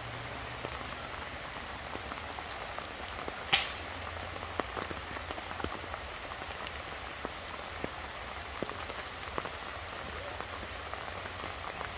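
Heavy rain falling through woodland: a steady hiss with many small ticks of individual drops striking leaves and gear. A single short sharp sound comes about three and a half seconds in, and right at the end a sharp crack, the shot of a .22 air rifle.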